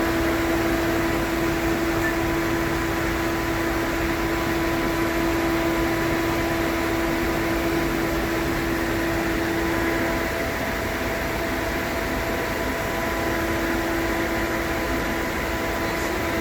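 Volvo V70's air-conditioning blower running steadily in the cabin, a constant rushing noise with a steady hum tone under it. The hum drops out about ten seconds in and comes back a few seconds later.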